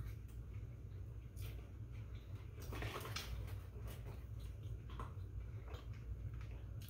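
Faint chewing and mouth sounds from people eating Big Mac burgers, with a few short rustles and taps, the longest about three seconds in, over a steady low hum.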